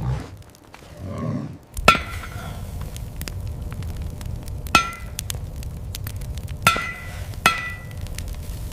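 Four sharp metallic strikes, each with a brief ring, spaced unevenly over a steady low rumble.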